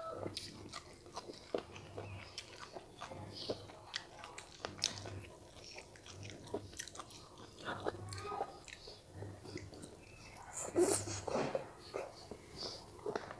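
Close-up mouth sounds of a person biting and chewing stir-fried chicken gizzards, with irregular wet clicks and crunches. A louder breathy sound comes about eleven seconds in.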